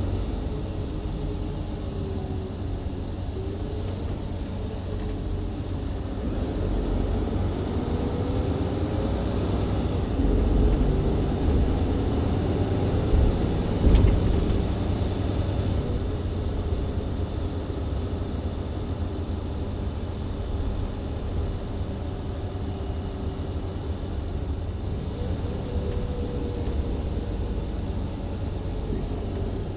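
Mercedes-Benz Citaro C2 LE hybrid bus with Voith automatic gearbox heard from on board while driving: steady engine and road noise, with a faint drivetrain whine that rises and falls in pitch. It gets louder for a few seconds in the middle, and a single sharp knock comes about halfway through.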